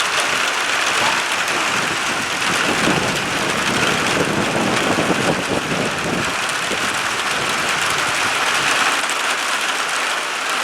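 Heavy rain pouring steadily in a summer storm, a dense even hiss, with a low rumble swelling about three to six seconds in.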